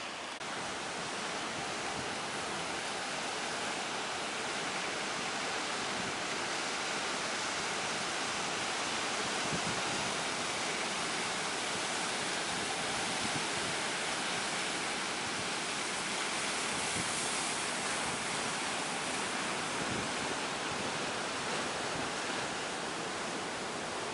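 Steady rush of breaking sea waves and surf, an even noise with no engine note heard above it.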